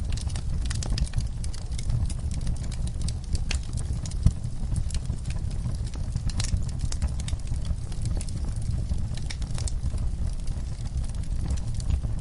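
Wood fire in a fireplace crackling, with frequent sharp pops and snaps over a low steady rumble of the flames; one louder pop about four seconds in.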